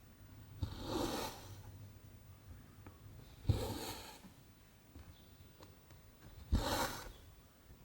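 Cotton embroidery thread pulled through cross-stitch canvas, three times about three seconds apart: each pull starts with a soft knock and then a short swish.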